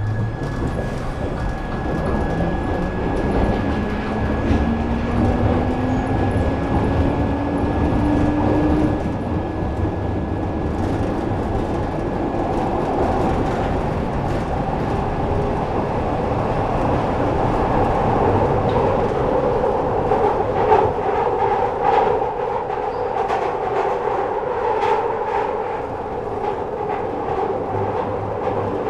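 Glasgow Subway train pulling away and running through the tunnel: a motor whine rises steadily in pitch over the first several seconds as the train speeds up, then a continuous running roar with scattered clicks and knocks from the wheels on the rails.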